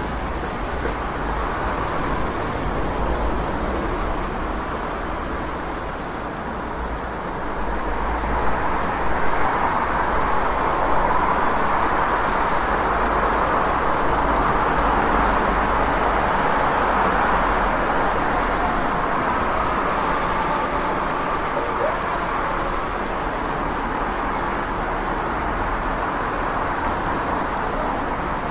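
City street traffic noise: a steady wash of passing cars with a low rumble, swelling as heavier traffic goes by through the middle and easing off towards the end.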